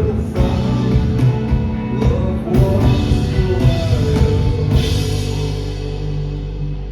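Live rock band playing with drums and guitars, hitting a run of accents, then the drums stop about five seconds in and a low held chord rings on and slowly fades as the song ends.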